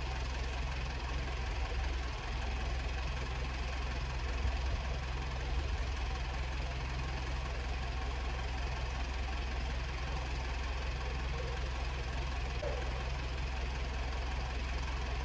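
Armstrong Siddeley diesel engine on an old Massey baler, running steadily at an even speed.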